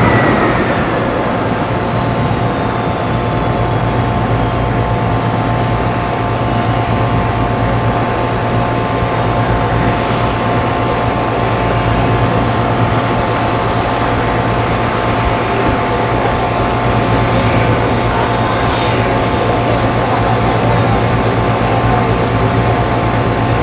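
Jet airliner engines running steadily at idle: a constant drone with a low hum and several steady whining tones.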